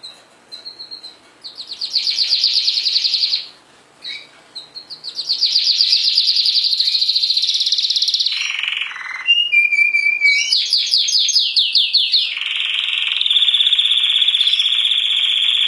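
Domestic canary singing: phrases of very fast trills, a few seconds each with short pauses between, ending in one long steady trill.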